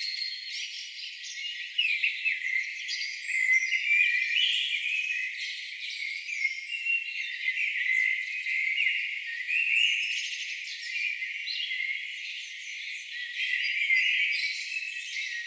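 A chorus of songbirds singing at once: dense overlapping chirps, trills and whistled phrases, with the low end of the sound cut away.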